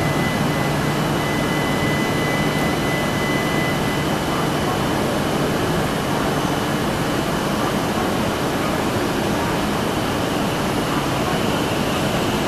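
E6-series Shinkansen train standing at the platform with its onboard equipment running: a steady, loud hiss and hum of fans, with a high whine throughout and a second high tone for the first few seconds. Near the end the train starts to move off.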